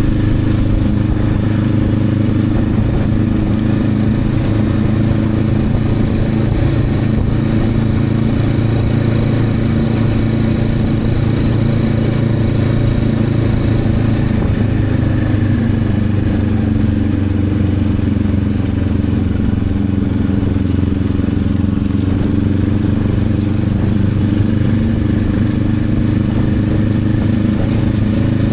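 Honda CB500X's parallel-twin engine running under way, with a steady note that eases a little and climbs back about halfway through.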